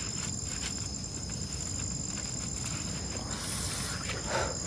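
Night insects, crickets, trilling steadily at two high pitches, with a brief hiss of noise about three and a half seconds in.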